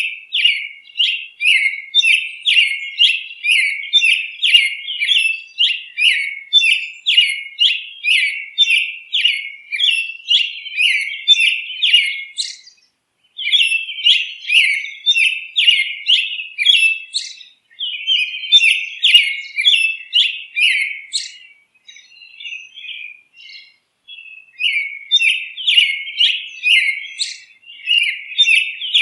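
Birds chirping: a fast run of short, repeated chirps, about two or three a second, breaking off briefly about 13 seconds in and thinning out for a few seconds a little after 20 seconds.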